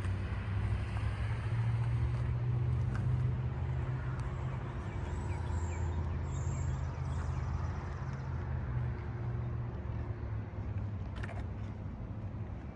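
A motor vehicle's engine running with a steady low hum that swells slightly early on and eases off near the end.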